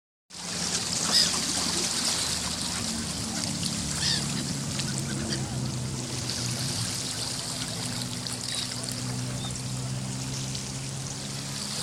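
Sea water washing and trickling along the shore as a steady hiss, with short bird calls about a second in and again about four seconds in, over a steady low hum.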